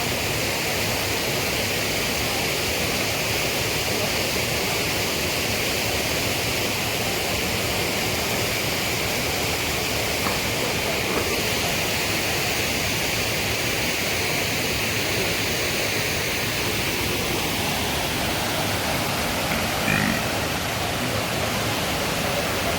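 Steady rushing of a waterfall and river water, an even hiss with no let-up.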